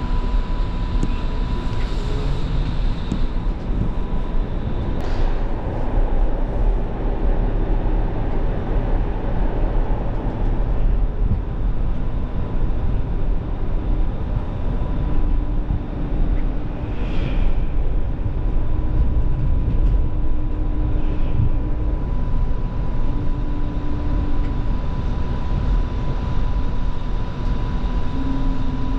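Light rail vehicle in motion, heard from inside the car: a steady rumble of the wheels on the rails with a constant high whine, and lower hums from the drive that come and go.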